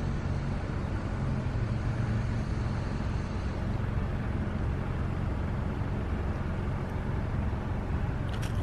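Steady low vehicle rumble, with a short click near the end.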